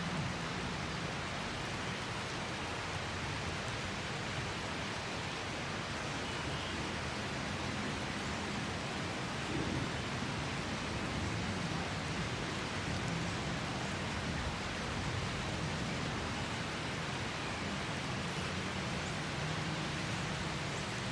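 Steady rain from a rainy-season storm, an even hiss with no break.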